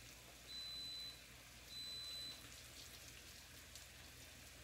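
Faint sizzling and light crackle of onions and tomatoes frying in a pan. A thin, high steady tone sounds twice in the first half, each for about half a second.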